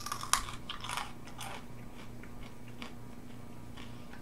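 Biting into and chewing a crisp freeze-dried apple slice: sharp crunches for the first second and a half, then fainter, scattered chewing sounds as the slice softens in the mouth.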